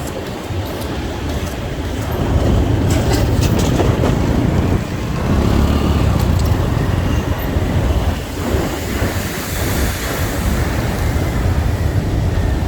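Motorcycle riding through city traffic: a steady low rumble of the bike's engine and the surrounding road traffic, with a few brief clicks in the first few seconds.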